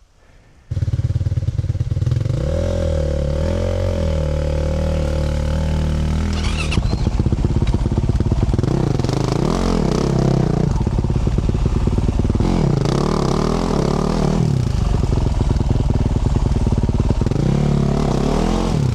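Yamaha YZ450F single-cylinder four-stroke dirt bike engine through a Yoshimura RS-12 exhaust, cutting in suddenly about a second in, then running and revving up and down repeatedly as the bike is ridden.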